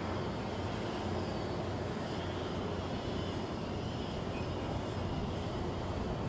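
Steady low mechanical drone of heavy machinery running, with an even hum and no strokes or pauses.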